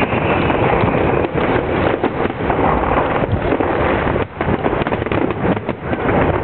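Fireworks display: a dense, continuous run of bangs and crackle from many shells bursting, with a short lull about four seconds in.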